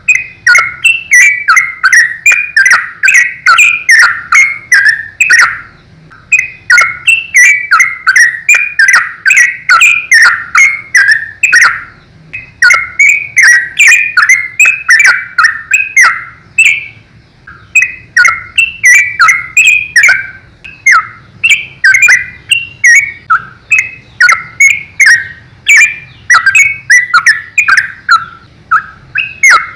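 Yellow-vented bulbul (trucukan) singing in rapid, continuous runs of short chirping notes, broken by brief pauses about six, twelve and eighteen seconds in.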